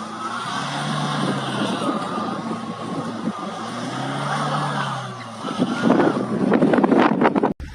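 Car engine revving up and falling back twice, then a louder rushing noise that stops abruptly just before the end.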